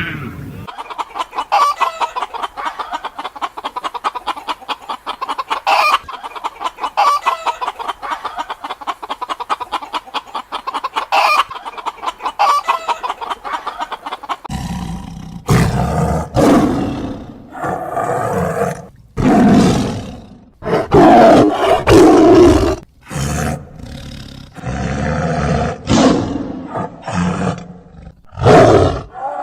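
Chickens clucking in a rapid, busy chatter, then from about halfway a big cat roaring again and again in long, loud calls.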